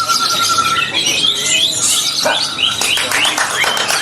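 Several caged white-rumped shamas (murai batu) singing at once in a dense overlap of whistles, chirps and rapid sliding notes. One held whistle ends about a second in.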